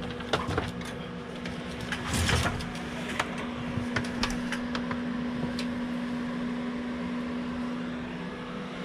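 A steady electrical hum, with scattered small clicks and knocks of parts being handled and a short rustle about two seconds in.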